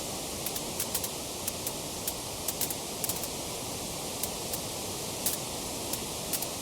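Wood fire crackling: a steady hiss with frequent sharp, irregular pops and snaps.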